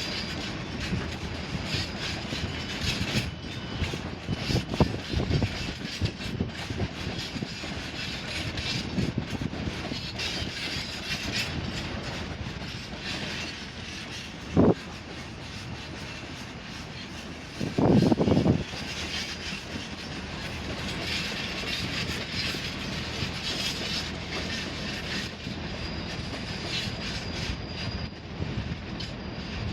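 A Class 158 diesel multiple unit moving through the station, its wheels clicking over rail joints with a steady rumble. There is a short loud knock about halfway through and a louder, roughly one-second sound a few seconds later.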